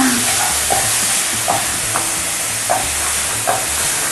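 Diced chicken sizzling in an oiled frying pan as it is stirred with a wooden spoon, with short knocks at intervals from a knife chopping pepper on a wooden cutting board.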